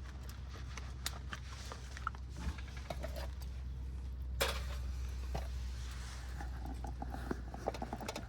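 Wood fire crackling, with scattered small pops over a steady low rumble and one louder snap about four and a half seconds in.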